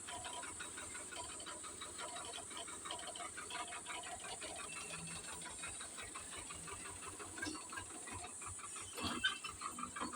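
Tractor diesel engine running steadily with a fast, even clatter, with a louder burst of noise about nine seconds in.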